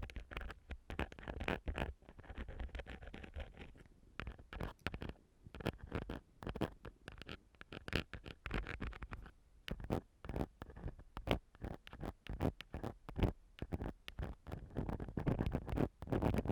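Ear-cleaning tool, a metal ear pick or a cotton swab, scratching and scraping inside a microphone's ear in quick, irregular strokes, with longer rubbing passages about two seconds in and near the end.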